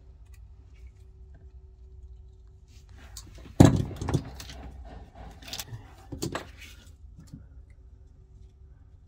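Small hard parts and tools being handled: a sharp knock about three and a half seconds in, followed by rattling and a few more clattering clicks, over a low steady hum.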